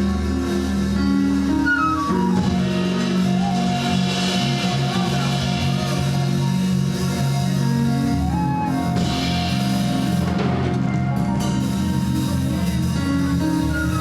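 Live gospel band music playing an instrumental passage, led by guitar over drums, with held notes and a couple of sliding notes.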